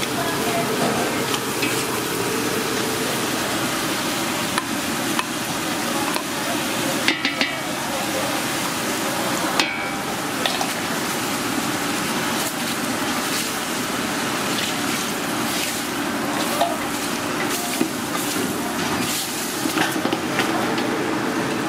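Onions and chili flakes sizzling in a large stainless steel stockpot while a silicone spatula stirs and scrapes the bottom, with a few sharp knocks of the spatula against the pot.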